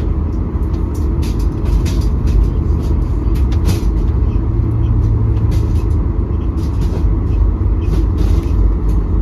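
Airliner cabin noise: a steady low rumble of engines and air flow, with scattered small clicks and knocks.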